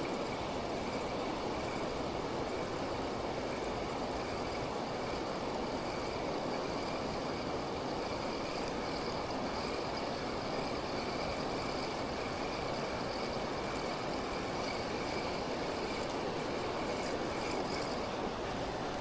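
Steady rush of water pouring over a weir, an even, unbroken noise.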